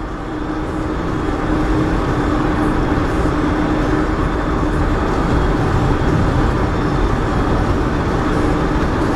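Steady road and engine noise of a moving car, heard from inside the cabin, with a faint steady drone under the rumble.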